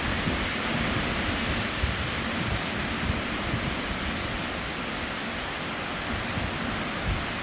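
Hurricane rain and wind: a steady, loud rushing noise with an irregular, gusting low rumble underneath.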